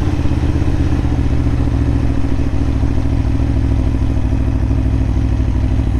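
Aprilia Tuono motorcycle engine running steadily while the bike is ridden, heard from a camera mounted on the bike; its note eases slightly lower over the first few seconds, then holds.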